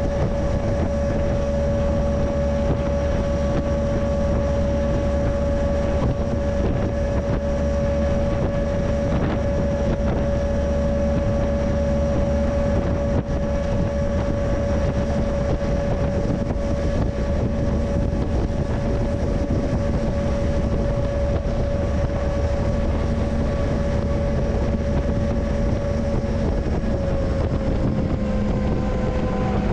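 Freight train running: a steady rumble and droning hum with wind buffeting the microphone. The drone's pitch drops a little near the end.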